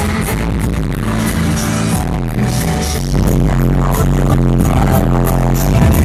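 Loud live K-pop dance music over a stadium sound system, its heavy bass distorting the fan's recording. It gets a little louder about halfway through.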